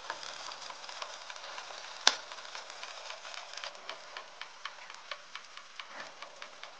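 Shakshuka vegetables, tomato, onion and pepper, sizzling in oil in a frying pan, with a steady hiss and crackling pops that come in a quick run in the second half. A single sharp knock sounds about two seconds in.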